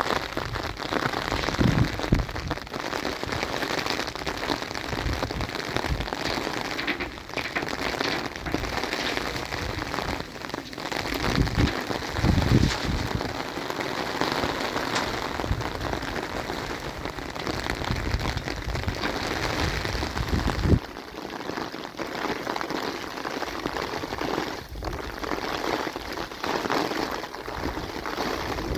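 Steady heavy rain falling, with low rumbles now and then that ease a little about two-thirds of the way through.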